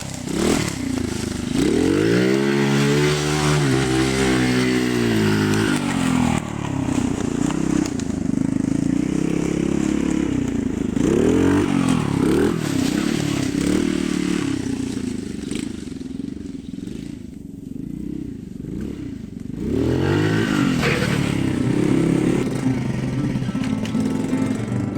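Minibike's Honda-clone four-stroke engine running under way, its pitch rising and falling again and again as it is revved and shifted. It eases off for a few seconds past the middle, then picks up again.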